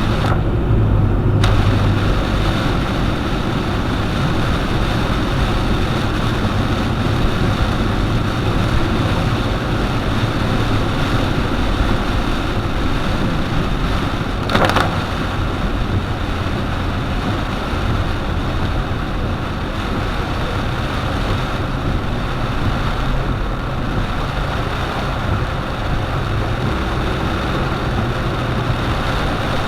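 Car driving on a wet road in the rain: steady engine and road noise with the hiss of tyres on wet pavement. A short, sharp noise cuts through about halfway.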